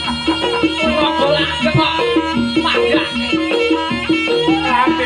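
Live Javanese traditional ensemble music accompanying a Tari Pegon dance. Struck metal keys play a repeating stepped pattern with drums, under a wavering high melody line.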